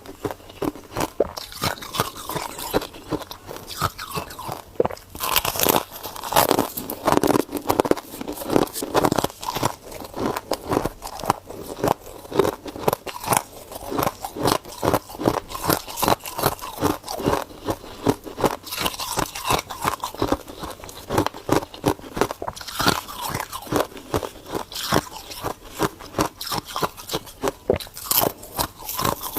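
Ice being bitten and chewed: a rapid, continuous run of sharp crunches, several a second.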